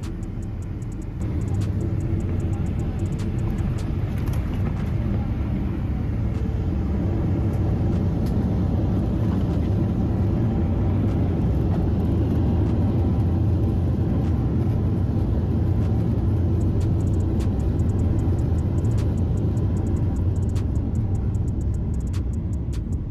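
Cabin noise of a Boeing 777-200 landing: a loud, steady low rumble that steps up suddenly about a second in, with faint rattling clicks throughout.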